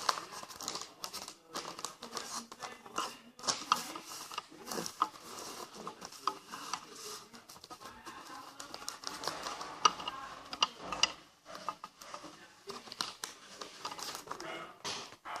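A sheet of paper being folded by hand into a paper jet plane: irregular rustling and crinkling with many short, sharp clicks.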